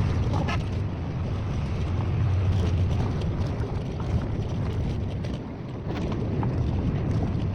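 Steady low rumble of a moving vehicle, with wind on the microphone and a few light knocks.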